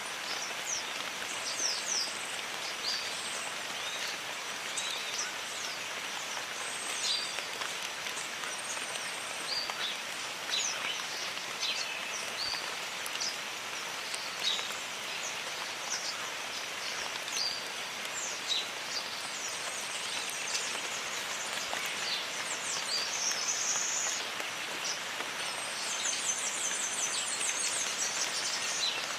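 Steady rain falling on jungle foliage, with many short, high bird chirps throughout. A high buzzing trill joins near the end.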